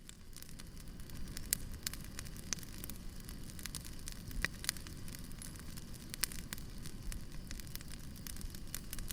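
Wood fire burning steadily, with a low rumble and irregular sharp crackles and pops of the burning logs.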